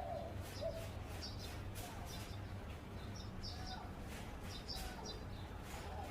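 Zebra dove giving short, soft cooing notes, with other small birds chirping repeatedly at a higher pitch over a low steady rumble.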